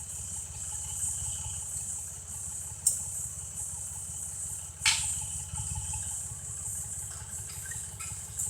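Farm tractor engine idling with a steady low rumble. Two sharp knocks come about three and five seconds in.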